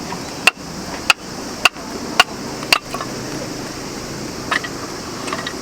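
Hand-tool strikes: five sharp knocks at a steady pace of about two a second, then a few fainter clicks near the end.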